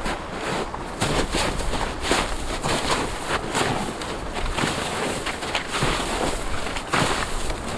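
Packed snow and ice being chipped and dug out: irregular crunching strikes into the hard snow, roughly one or two strong ones a second with smaller scrapes between.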